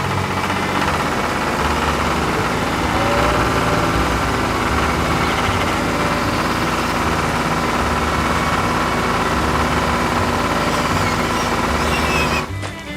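Heavy construction machine engine running steadily with a low, uneven rumble; it cuts off suddenly near the end.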